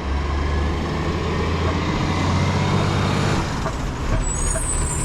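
Garbage truck's engine running, a steady low drone that eases a little past three seconds in, with a high-pitched squeal from about four seconds in.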